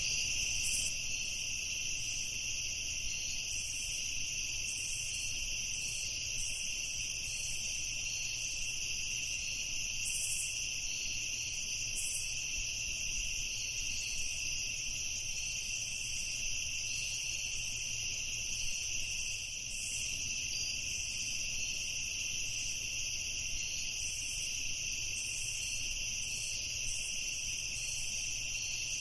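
Night insect chorus of crickets chirping in steady high-pitched bands, with fainter chirps scattered above them.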